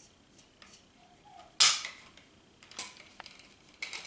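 Smith & Wesson SD40 striker-fired pistol being dry-fired against a trigger pull gauge: one sharp snap about a second and a half in as the trigger breaks and the striker releases, then a few light clicks of the trigger and gauge being handled.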